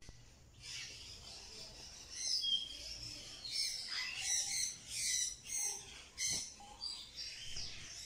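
Several birds chirping and calling together in a stream of short, high chirps, with one brief clear whistle about two seconds in.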